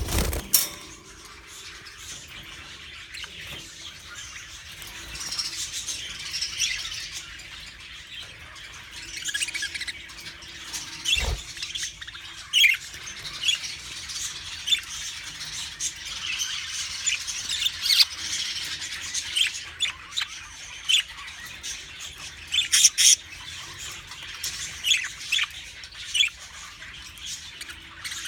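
Several budgerigars chattering and warbling together, a steady stream of short chirps with sharper, louder squawks scattered through it. A single dull thump about 11 seconds in.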